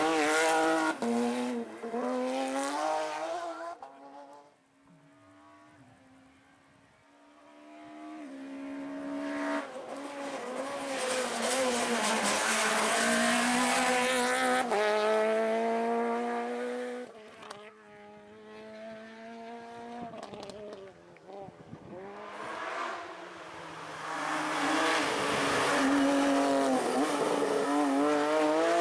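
Rally cars driven hard on a stage, engine notes climbing through the gears with sudden drops at each upshift. One car fades out about four seconds in. Another builds from about eight seconds, is loudest in the middle and drops away, and a third comes up loud near the end.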